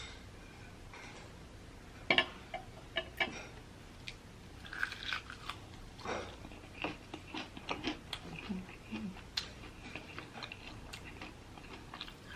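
A person biting into and chewing a crispy fried chicken wing: irregular crunches and chewing clicks, the sharpest bite about two seconds in.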